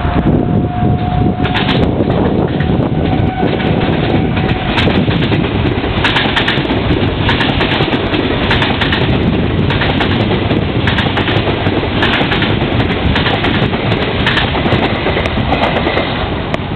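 A Swiss electric locomotive hauling double-deck coaches passes close by, with a continuous heavy rumble and irregular clattering of wheels over rail joints and points. A thin steady whine is heard for the first few seconds.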